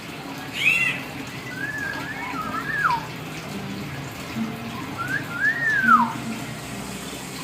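Hill myna giving whistled calls: a short high chirp about half a second in, then two long swooping whistles that rise and fall in pitch, one around two seconds in and one around five to six seconds in, over a steady background hiss.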